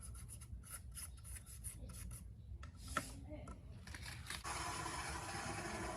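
Rubbing and scraping: a quick run of short strokes, a sharp click about three seconds in, then a steadier, louder rubbing noise from about four and a half seconds.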